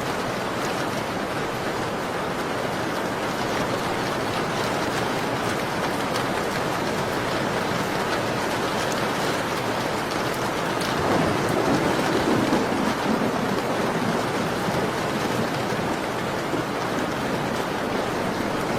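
Steady rain falling, with scattered faint crackles of a wood fire; the sound swells briefly a little past the middle.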